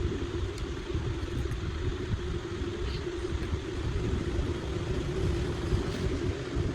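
Electric hand router running steadily, a continuous motor hum over a low rumble.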